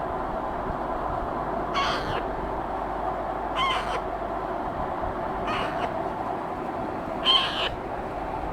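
A hand-fed parakeet chick calling with short, harsh squawks, four of them about two seconds apart, the last the loudest, over a steady background noise.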